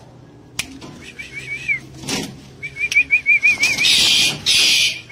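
A tuwu (wik-wik) bird calling with two runs of quick, wavering whistled notes, about seven a second. Two loud rushing noise bursts follow near the end.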